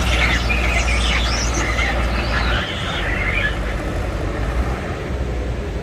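Antique farm tractor engine running hard under load while pulling, then easing off about two and a half seconds in. High squeaks sound over the engine before the drop.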